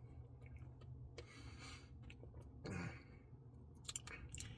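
Very quiet room tone with two soft breaths close to the microphone and a few faint clicks near the end.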